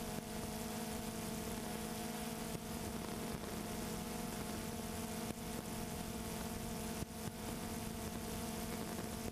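Steady hum and whine of a multirotor drone's motors and propellers, several fixed tones over a hiss, with no change in pitch.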